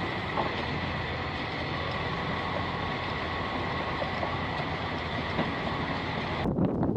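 Heavy off-road truck running, a steady rumble with a faint high whine over it. Near the end it cuts abruptly to a louder, rougher sound.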